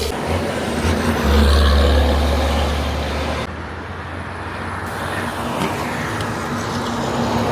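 Heavy truck's diesel engine running with road and traffic noise; the sound shifts abruptly about three and a half seconds in.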